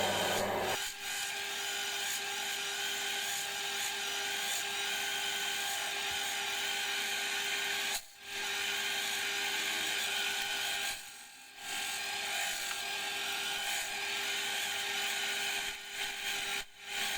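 A workshop machine tool running and cutting metal: a steady whine with a hiss. A lower motor hum stops just under a second in, and the cutting sound drops out briefly about halfway through and again about two-thirds of the way through.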